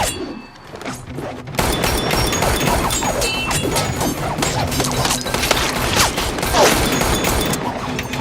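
Movie action sound effects: after a brief lull, a dense run of gunshots, bullet impacts and crashes starts about a second and a half in, over a film score.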